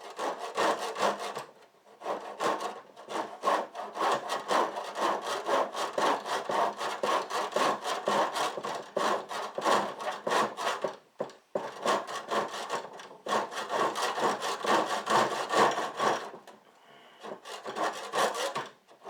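Handsaw cutting through the end of a garage door in quick, steady back-and-forth strokes, stopping briefly about a second and a half in, again around the middle, and for a couple of seconds near the end.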